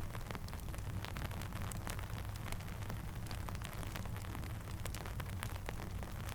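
Steady rain falling, with many irregular sharp ticks and pops from a crackling campfire over a low, even rumble.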